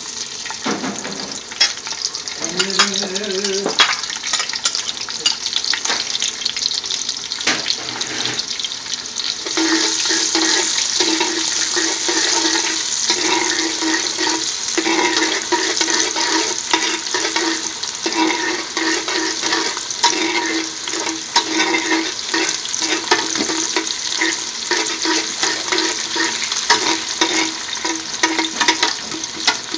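Sliced garlic and panch phoron seeds sizzling in hot oil in a large aluminium pot, with a metal ladle scraping and knocking against the pot as it is stirred. The sizzle gets louder about ten seconds in.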